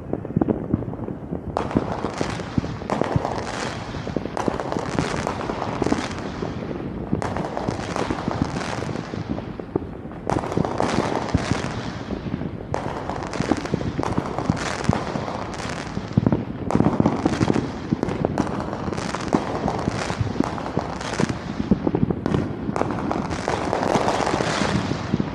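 Fireworks going off in a rapid, dense barrage: many sharp bangs and crackles in quick succession, each trailing off in a ringing echo.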